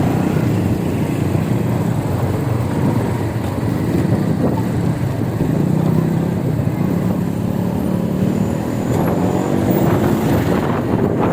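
Steady low rumble of road and traffic noise heard while riding an electric bike.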